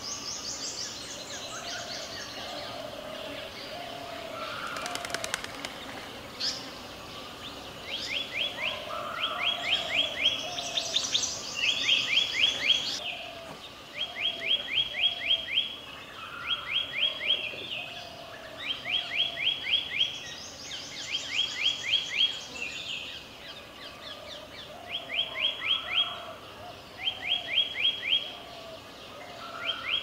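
Several wild birds calling. From about eight seconds in, one bird gives a rapid burst of six to eight sharp chips roughly every two seconds. Another bird repeats a lower, softer note underneath, and there is higher twittering at times.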